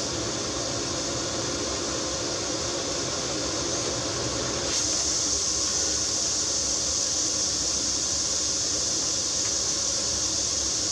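Maxxair Maxxfan Deluxe roof vent fan running at full (100%) speed, drawing air out of the van: a steady, loud rush of air with a hiss, growing a little louder about five seconds in.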